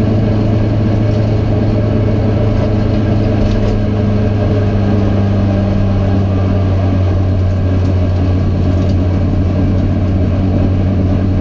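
Renault Clio RS Cup race car's engine running at nearly constant revs, heard from inside the stripped cabin, with road and wind noise over it.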